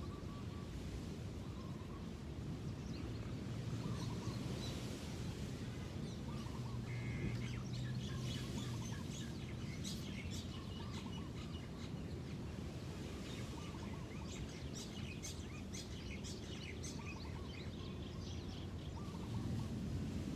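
Many small birds chirping over a steady low background rumble, with a low hum from about three to nine seconds in.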